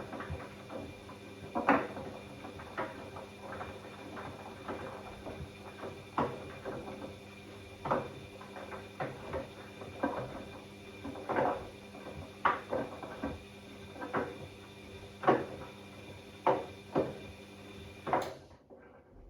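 Bosch Classixx 6 front-loading washing machine tumbling a wet load in the early sensing phase of a cottons 90 wash. A steady motor hum runs under irregular thuds and sloshes of laundry dropping in the drum, and everything stops suddenly near the end.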